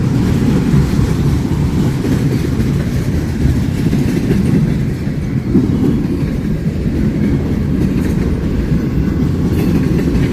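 A train passing close by: a steady, loud rumble of railcar wheels rolling on the rails.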